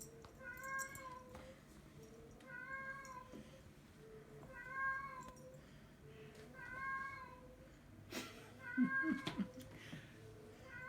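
A recorded cat meow played on loop through an Amazon Echo smart speaker, the same call repeating about every two seconds. Near the end comes a sharp noise and some lower, irregular sounds.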